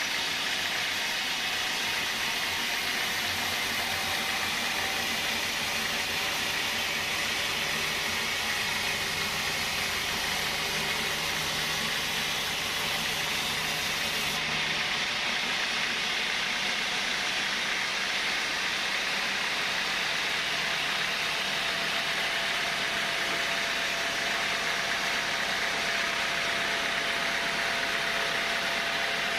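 Sawmill saw machinery running with a steady, loud hissing whir, as in timber being sawn into boards. Its character changes abruptly about halfway through.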